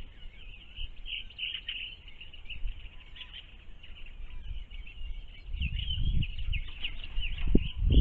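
Birds chirping, with many short, high calls throughout and a brief low rumble about six seconds in.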